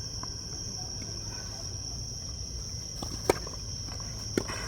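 Two sharp tennis-ball impacts about a second apart, the first the louder, over a steady high drone of insects buzzing.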